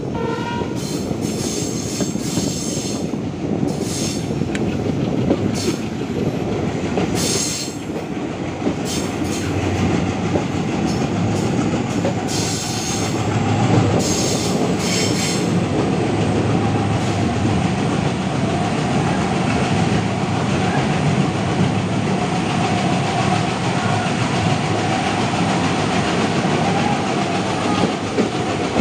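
Passenger train coaches running on the track, heard from an open doorway: a steady rumble of wheels with clickety-clack over the rail joints. A faint steady wheel squeal comes in about halfway through.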